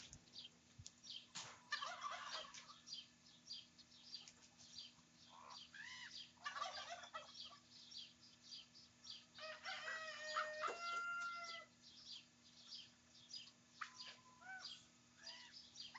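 Young ravens calling while squabbling over food: a steady run of short rising-and-falling calls, with louder, harsher bursts about two, six and ten seconds in, the one near ten seconds held on a steady pitch for over a second.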